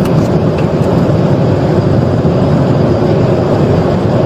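Loud, steady road and engine noise inside a police patrol car running at high speed, around 115 mph, in a highway pursuit.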